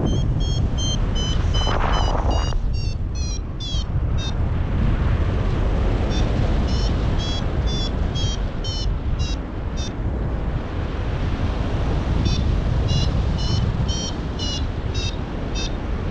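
Paragliding variometer beeping, about two to three short high beeps a second with the pitch stepping up at times. This is the climb tone that signals the glider rising in lift. Heavy wind rushes over the microphone throughout, with a louder gust about two seconds in, and the beeping stops for about two seconds near the middle.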